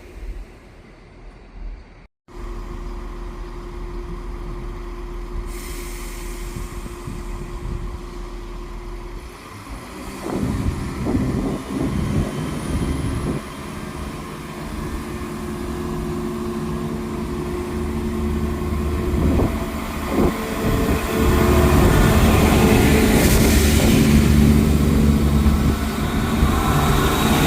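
A train running in a station, with a steady mechanical tone, irregular clanks and knocks from about ten seconds in, and the engine sound growing louder near the end. There is a brief audio dropout about two seconds in.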